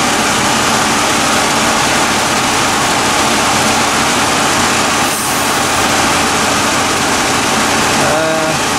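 Engine-bay noise of a Chevrolet Impala's 3500 V6 running with the air conditioning on: a loud, steady rush with a faint hum underneath.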